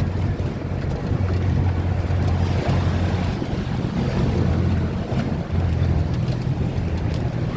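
Steady low drone of a moving vehicle's engine and road noise.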